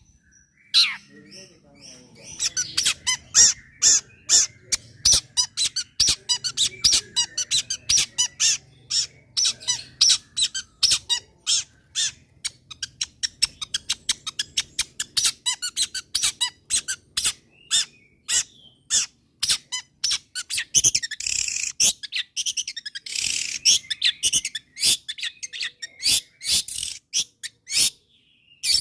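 Long-tailed shrike (cendet) singing a fast, rapid-fire series of sharp chirps, with harsh rasping notes about two-thirds of the way through.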